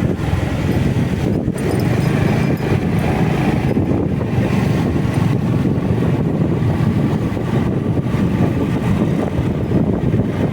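Wind rushing over the microphone of a motorcycle rider on the move, mixed with the steady running of the bike and its tyres on the road.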